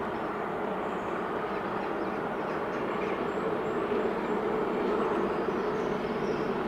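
A distant train approaching: a steady rumble that slowly grows louder.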